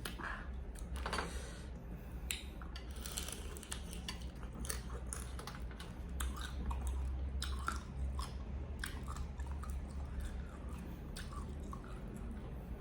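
A person chewing food close to the microphone, with irregular crisp crunching bites.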